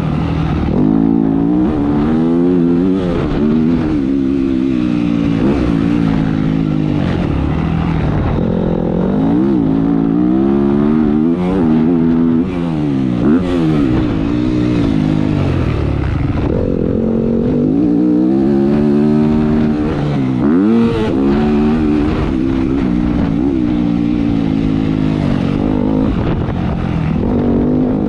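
Motocross dirt bike engine revving hard and constantly, pitch climbing through each gear and dropping sharply several times as the throttle is chopped, heard from on the bike while lapping a track.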